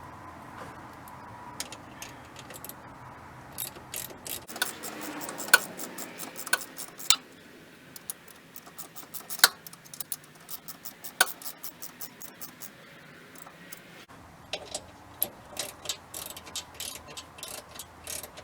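Hand ratchet wrench clicking as motor mount bolts are run in and tightened: scattered sharp clicks at first, then fast runs of clicks in the last few seconds.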